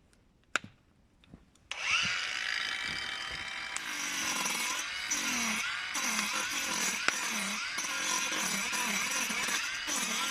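A few faint clicks, then a tool starts suddenly about two seconds in and runs on steadily, its pitch rising and falling about twice a second.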